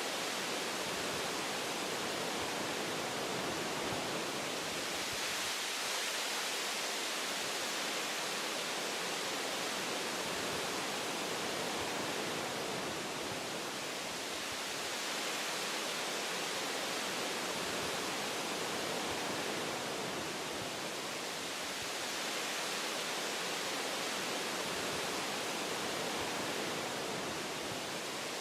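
Wind blowing through forest tree branches: a steady rushing noise that swells and eases slightly.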